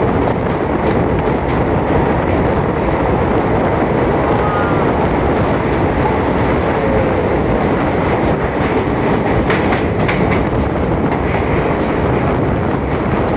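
Moving passenger train, a loud steady rumble of wheels on the track with faint clicks and a brief light wheel squeal about five seconds in.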